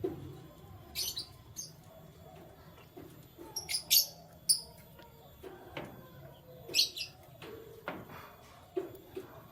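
Canaries giving short, separate chirps every second or so, not a continuous song, with a few soft knocks underneath.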